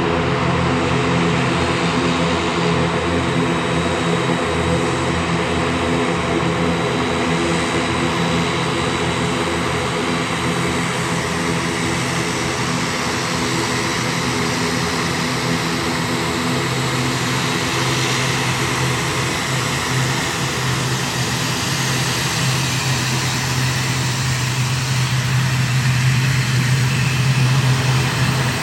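Aircraft engines running steadily: a hum of several steady low tones over a broad rush, a low tone growing stronger from about halfway and the whole a little louder near the end.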